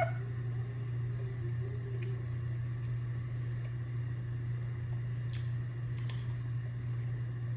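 Close-up wet chewing and squishy mouth sounds of someone eating, with scattered small clicks over a steady low hum.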